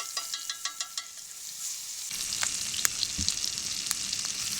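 Butter sizzling and crackling in a hot cast iron pan over a wood fire, with a few sharp pops.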